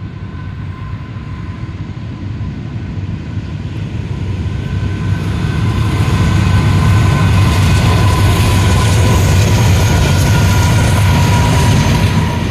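Norfolk Southern freight train rumbling past, growing louder over the first six seconds and then holding steady, with a thin steady whine running through it.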